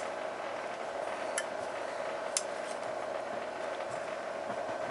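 A steady hum from the oil boiler setup with a few sharp clicks about a second apart, while the burner fails to fire: the primary control's relay is not pulling in, which the technician puts down to a bad control.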